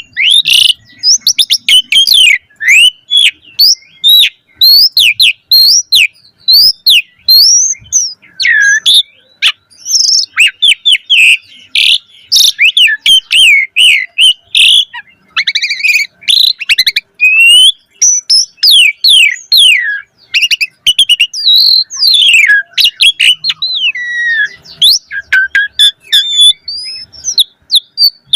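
Asian pied starling (jalak suren) singing a long, fast, varied song of whistles, chirps and squeaky rising and falling notes, strung together with only brief pauses.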